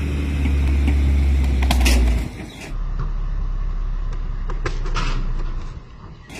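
Heavy diesel truck engine running steadily with a deep hum, changing abruptly a little over two seconds in and then fading near the end, with a few brief knocks.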